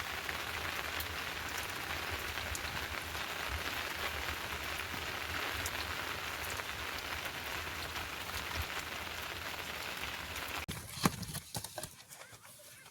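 Steady rain falling on surfaces, with individual drops ticking through it. About ten and a half seconds in it cuts off abruptly, giving way to a quieter stretch with one sharp knock and scattered ticks.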